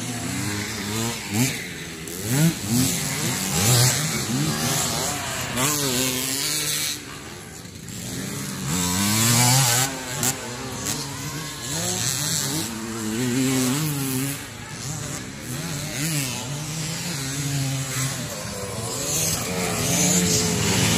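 Motocross dirt bikes racing, several engines revving up and down through the gears at once, with a brief lull about a third of the way in.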